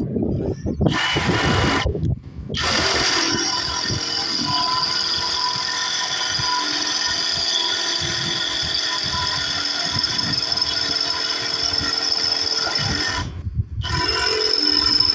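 Electric drill with a 10.5 mm bit reaming out 8 mm anchor holes in steel chimney brackets: a short burst about a second in, then a steady run with a high whine of the bit cutting metal, stopping briefly near the end and starting again.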